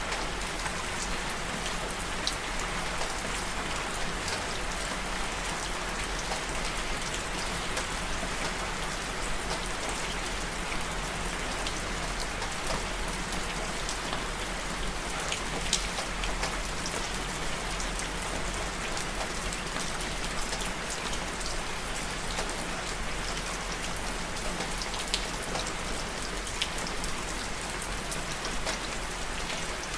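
Steady rain falling on a surface, a continuous hiss with many individual drops ticking.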